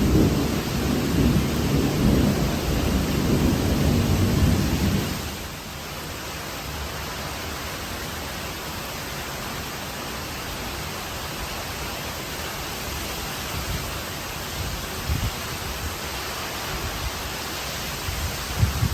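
Tropical thunderstorm: a low rolling rumble of thunder over steady rain dies away about five seconds in. After that, the even hiss of falling rain remains, with a few soft low thumps near the end.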